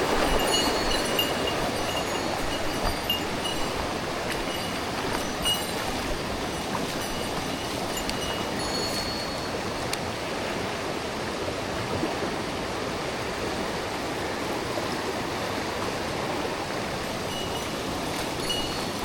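Mountain stream water rushing steadily over rocks, with short faint high chirps over it in the first half.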